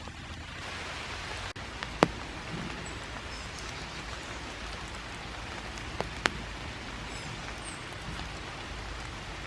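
Steady light rain falling on leaves, a soft even patter, with a few sharp single taps of drops: a loud one about two seconds in and two more close together around six seconds.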